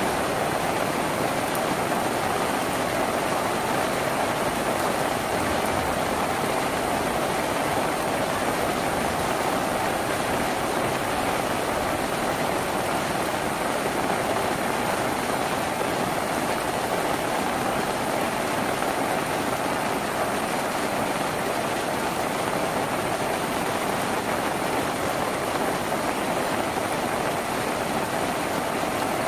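Steady heavy rain on a tin roof, an even unbroken hiss and patter.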